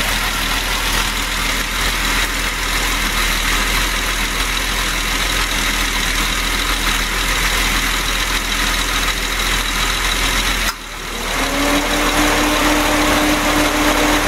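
Car engine idling with the air conditioning running and a loud steady rushing, fan-like noise. About eleven seconds in the rush drops off sharply, then builds again with a steady hum that rises slightly in pitch.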